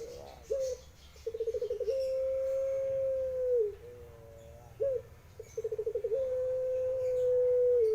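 A puter (Barbary dove) cooing in the long-drawn pelung style: twice, a short note, then a quick rolling stutter, then a long held coo that drops in pitch at the end.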